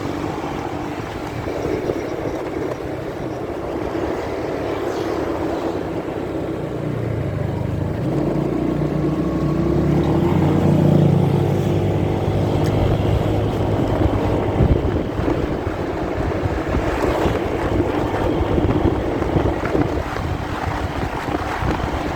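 Motorcycle engine running on the road with wind and road noise, muffled by being recorded from a phone in a pocket. The engine note rises and gets louder from about seven to eleven seconds in as the bike speeds up, then settles.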